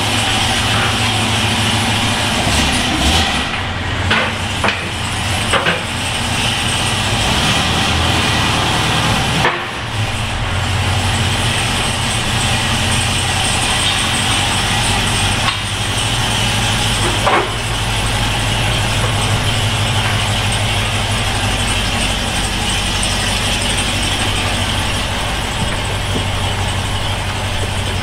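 BMW S85 V10 engine idling steadily in an E46 M3, its exhaust running without the rear silencer (back box) fitted.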